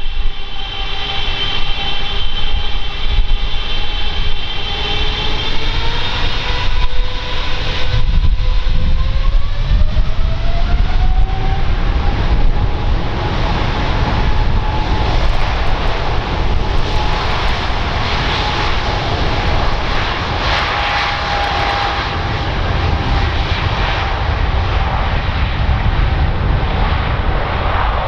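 Jet airliner's engines running with a heavy rumble. Their whining tones climb in pitch from about five to twelve seconds in, then hold steady, as the engines spool up to higher thrust.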